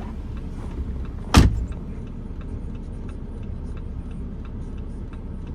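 Vehicle running with a steady low rumble while pulling a stuck minivan out of deep snow, with a single loud thump about one and a half seconds in and a light, even ticking about three times a second.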